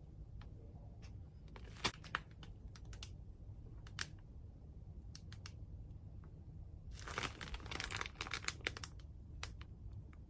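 Slime being squeezed and poked, giving scattered sharp clicks and pops, with a dense crackling run about seven seconds in.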